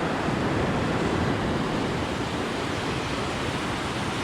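The Smith River running high near flood stage: a steady, even rush of fast water.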